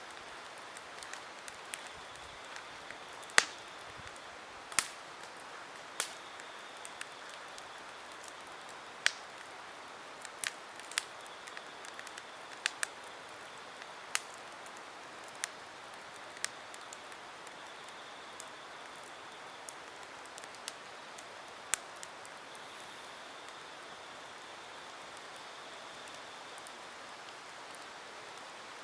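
Campfire burning wood, crackling with scattered sharp pops over a steady hiss; the pops are frequent in the first twenty seconds or so and thin out near the end.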